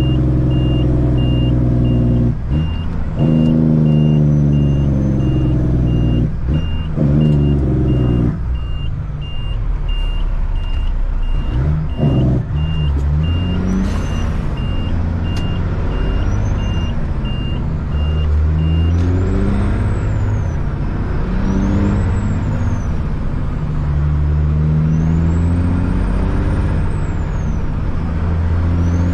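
Caterpillar C-15 diesel engine running while the truck manoeuvres, with a reversing alarm beeping steadily about twice a second until it stops about two-thirds of the way through. After that the revs rise and fall several times, with a high whistle rising and falling along with them.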